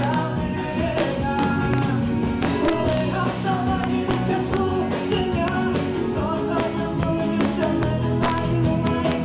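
Live band music with regular drum hits and sustained instrument notes, and a voice singing a melody over it, played through the stage's sound system during a soundcheck.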